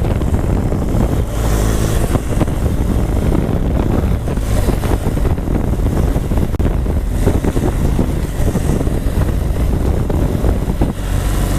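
BMW R1200GS flat-twin engine running hard under load over rough ground, with wind noise on the helmet microphone.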